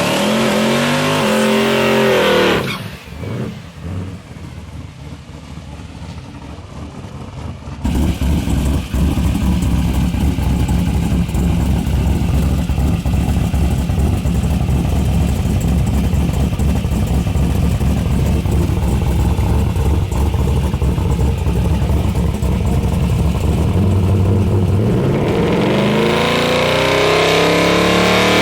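Drag-race Ford XW Fairmont's V8 engine revving hard, its pitch swinging down and up. After a quieter few seconds it comes in suddenly as a loud, steady low rumble, and near the end the engine note climbs again as it revs up.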